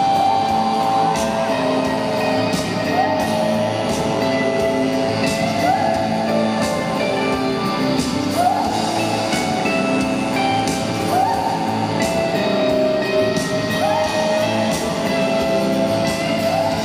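A live rock band playing, with a sung vocal and guitar. A note slides upward every few seconds.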